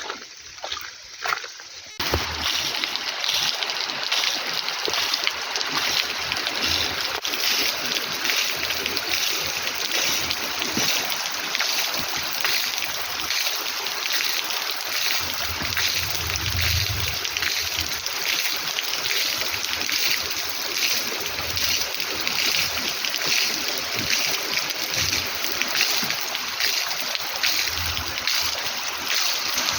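Heavy rain pouring as a dense, steady hiss, which starts abruptly about two seconds in after a few separate drips. A short low rumble comes about midway.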